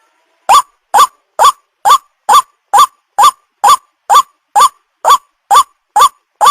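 White-breasted waterhen calling: a short, hooked note that rises and falls, repeated in an even series about twice a second, resuming after a brief pause at the start.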